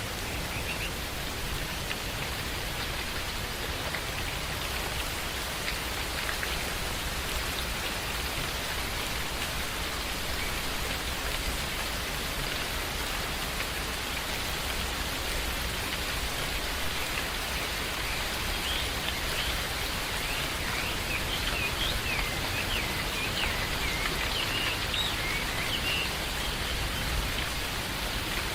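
Steady rain falling, an even hiss, with a few short high bird chirps in the second half.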